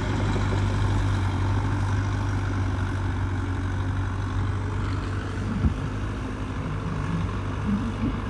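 Heavy diesel earthmoving engine running steadily with a deep, even hum, easing off slightly about two-thirds of the way through.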